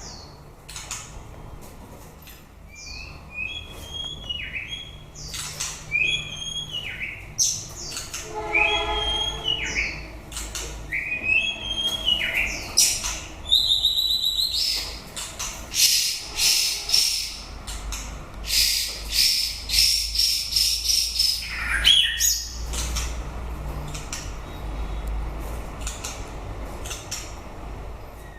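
White-rumped shama singing: a varied run of clear whistled notes that slide up and down, broken by harsh, scratchy notes through the middle stretch.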